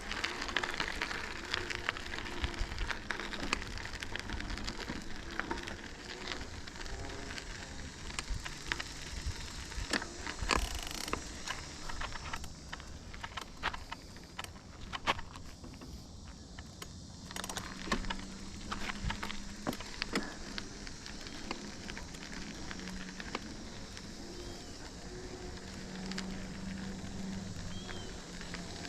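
Riese & Muller Roadster e-bike being ridden along, its tyres giving a steady rolling noise broken by frequent small clicks and rattles.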